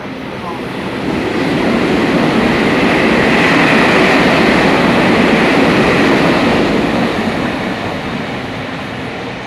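A train passing through at speed on an adjacent track, a rail rumble with wheel clatter. It swells over about two seconds, holds loudest around the middle, and fades away.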